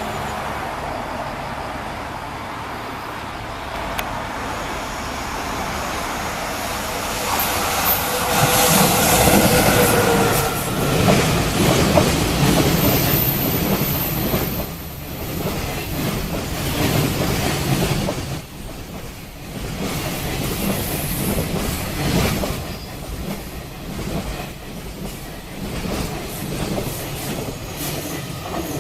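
A JR Freight EF66 electric locomotive and its long train of loaded container wagons passing at speed. The sound builds, peaks with a whine as the locomotive goes by about eight seconds in, then carries on as a long rhythmic clatter of wagon wheels over the rail joints.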